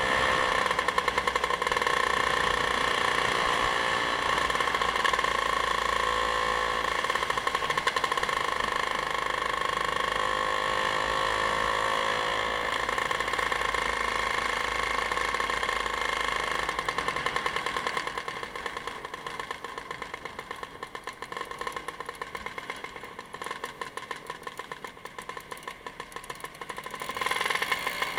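Vehicle engine running steadily on the road, with a fast even pulse. It eases off for about ten seconds in the second half and picks up again near the end.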